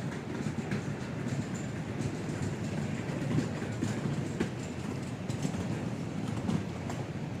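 Steady low rumble with scattered light clicks and knocks.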